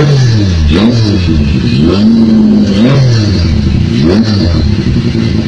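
Three-cylinder engine in a modified Honda New Megapro motorcycle revved in place with repeated throttle blips, its pitch rising and falling. One rev is held high for about a second around the middle, and the engine drops back to a steady idle near the end.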